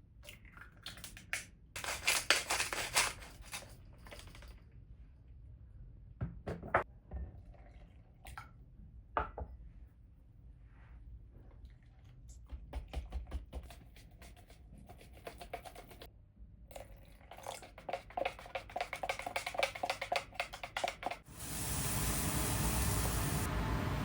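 Kitchen handling sounds: scattered clinks and clatter of dishes and utensils, the sharpest about two and nine seconds in. About 21 seconds in, a steady hiss starts and continues.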